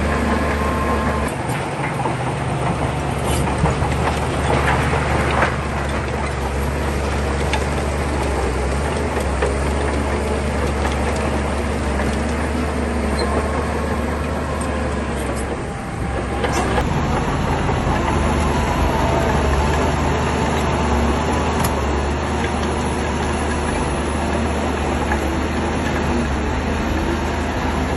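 Shantui crawler bulldozer working: its diesel engine running under load with a steady low drone, and the steel tracks clanking and rattling.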